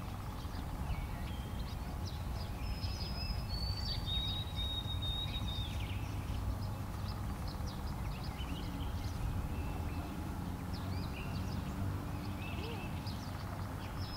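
Birds chirping outdoors, with a clear whistled phrase of three falling notes about three seconds in, over a steady low rumble.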